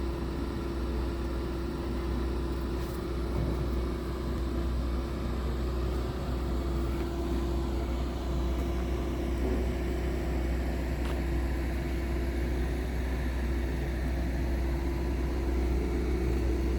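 Scania R tractor unit's diesel engine idling steadily, with a constant low hum and no revving.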